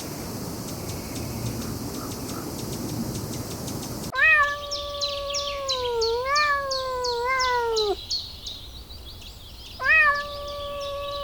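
Domestic cat meowing: one long, wavering meow lasting about four seconds that starts abruptly partway in, then a second meow near the end, with fast high chirping behind the first. Before the meows there is a steady noisy background.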